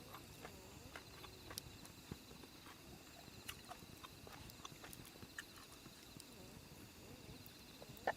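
Faint, irregular clicks and small knocks over a thin, steady high trill.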